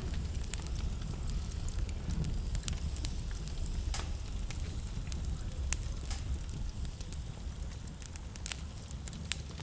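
Wood fire in a fireplace crackling, with irregular sharp pops over a steady low rumble of the burning.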